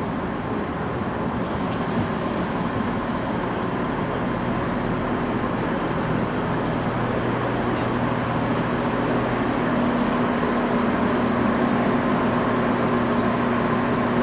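Class 168 diesel multiple unit's underfloor diesel engines running with a steady drone that grows gradually louder, over a rushing of wind.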